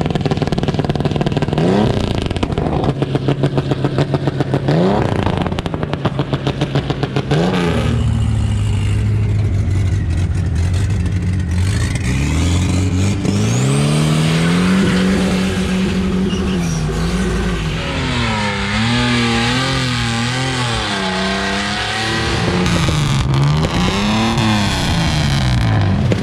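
Loud carburetted Chevrolet Opala six-cylinder engines being revved. First come three short throttle blips over a choppy, pulsing idle. From about eight seconds a deeper-sounding engine idles, then is revved up and held with the revs wavering, drops back, and is blipped again near the end.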